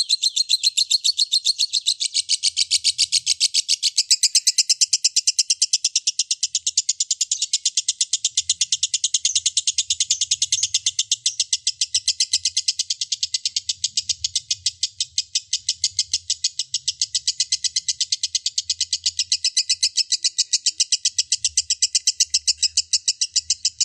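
Recorded songbird call used as a masteran tutor track: a long, even run of sharp, high chirps repeated rapidly, several a second, without a break.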